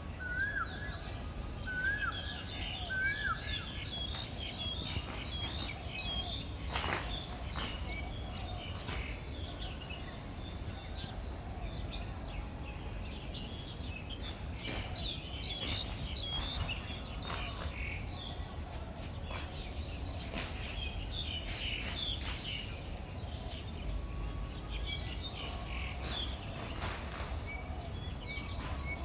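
Many small birds chirping and twittering in quick short calls, overlapping throughout, over a low steady rumble.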